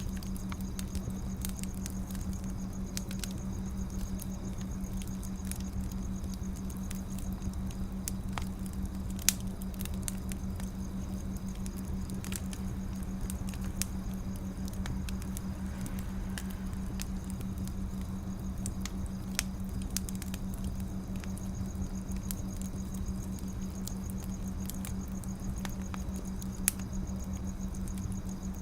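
Firewood burning, crackling steadily with scattered small pops and a couple of louder snaps, over a constant low hum.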